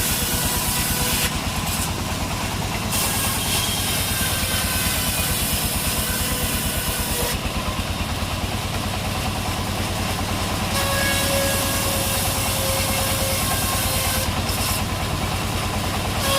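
Sawmill machinery running: an engine chugging rapidly and evenly, with a few steady whining tones and a hiss over it.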